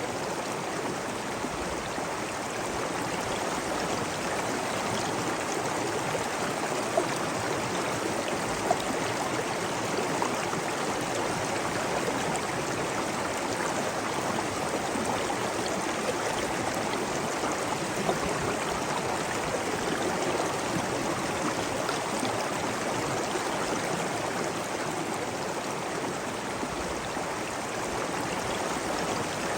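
Steady rush of flowing stream water, with a few brief, slightly louder splashes.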